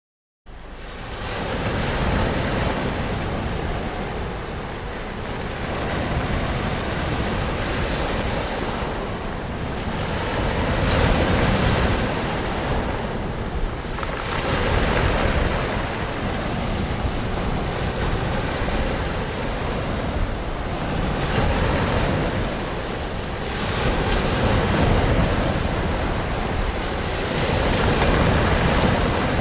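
Ocean waves breaking and washing onto shore, a steady rush that swells and eases every few seconds. It starts abruptly out of dead silence about half a second in, with some wind on the microphone.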